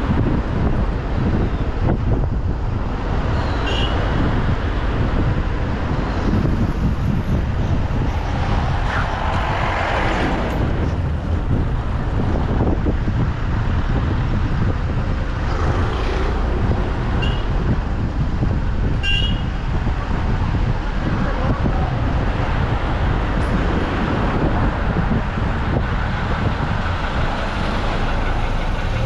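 Car driving on a road: steady engine and tyre rumble, with a few brief high-pitched beeps here and there.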